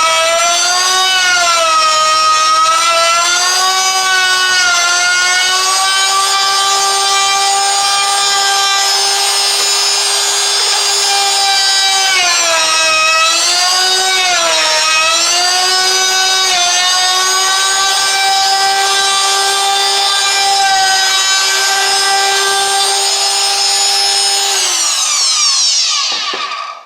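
Electric router running with a beveled bit, cutting a wood edge: a steady high motor whine whose pitch dips several times as the bit bites into the wood under load and then recovers. Near the end it is switched off and winds down to a stop.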